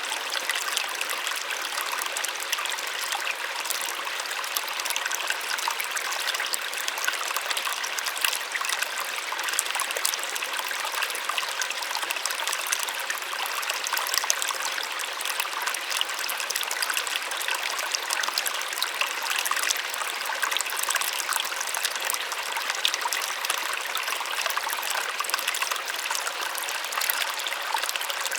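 Small waterfall: steady splashing and trickling water with many small droplet splashes and little deep rumble.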